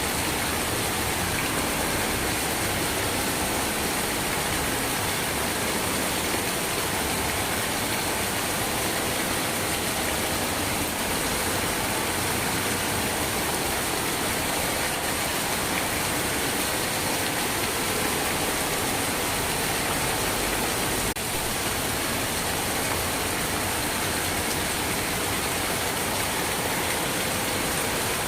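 Steady rain falling, an even wash of noise with no single drops or gusts standing out.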